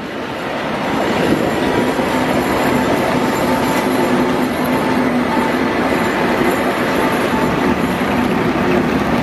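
A diesel-hauled passenger train passing close by at speed, its locomotive and then its coaches rolling over the rails in a steady rush, with a few faint steady whining tones on top.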